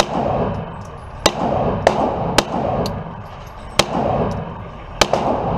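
Gunshots on a shooting range, about six at uneven intervals, each followed by an echoing ring.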